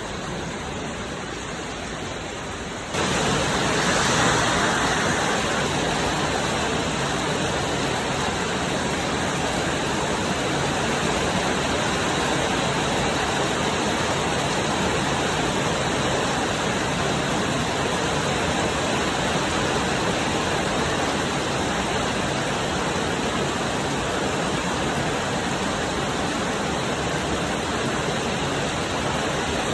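Heavy rain pouring down in a steady, dense hiss, stepping up abruptly about three seconds in and holding there.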